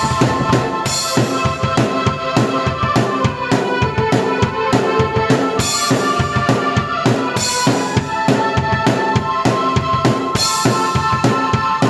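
Drum kit and keyboard played together by one performer: a busy, steady kick-and-snare pattern under sustained keyboard chords.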